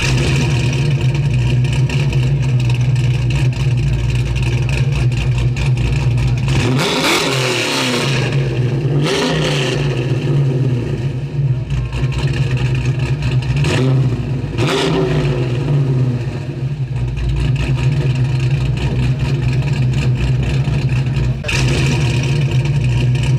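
A 1963 Studebaker Hawk GT's V8, fitted with a four-barrel carburetor, idling steadily. It is revved four times, in two pairs: once about a third of the way in and again a little past the middle, each rev rising and falling before it settles back to idle.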